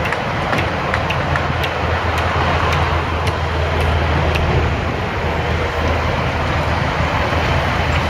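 Steady motor-vehicle noise: a low engine hum under a continuous road roar, with scattered light ticks.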